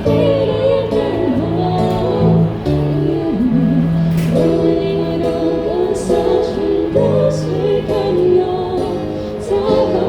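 Live band music with a female singer: a sung melody over held bass notes and chords.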